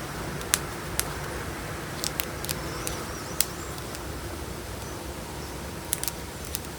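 Chunk of gym chalk being crushed between the fingers: sharp, crisp crunching snaps, several in the first half and a close pair near the end, over a steady low hiss.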